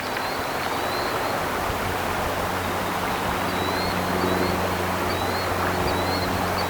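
Creek water flowing steadily, with faint, short, high bird chirps every second or so.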